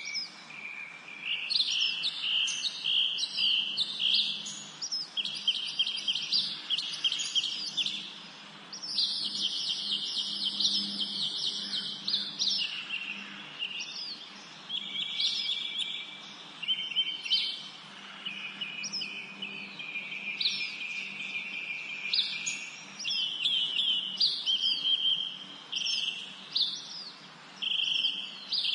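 Several songbirds singing and chirping at once: repeated chirp phrases, fast trills and short downslurred notes overlapping, with brief lulls.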